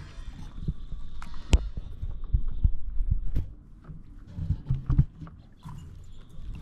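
Irregular low thumps and knocks with a few sharp clicks, picked up by a camera resting on a paddleboard on the lake: the board knocking on the water and the camera being handled.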